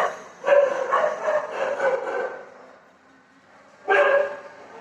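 A dog barking in the background in several bursts: one bark at the start, a run of barks for about two seconds, and another bark near the end.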